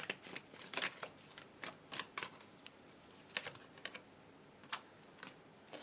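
Tarot cards being handled and laid out: a series of light, irregular clicks and snaps.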